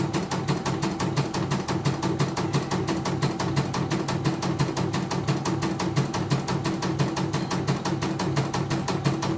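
CNY E900 computerised embroidery machine running and stitching, its needle strokes making a fast, even clicking over a steady motor hum.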